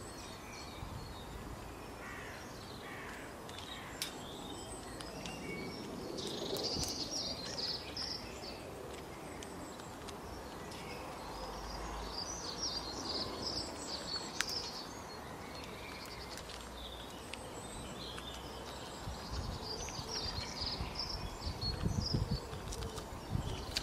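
Small songbirds chirping and twittering in short high bursts over steady outdoor background noise, with a few sharp clicks and a low rumble near the end.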